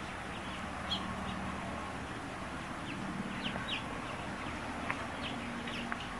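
Birds chirping: many short, quick calls scattered throughout, over a steady faint background hiss and low hum.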